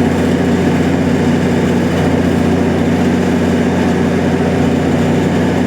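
GO Transit commuter train's diesel locomotive idling while stopped at the platform, a loud, steady low engine drone that holds unchanged.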